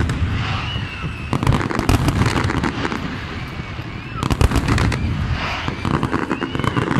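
Aerial fireworks bursting: deep booms with clusters of rapid crackling, about a second and a half in and again about four seconds in.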